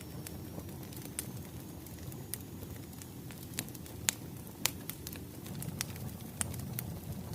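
Wood fire crackling: a steady low rumble of burning logs with irregular sharp pops and snaps, the loudest two about four and four and a half seconds in.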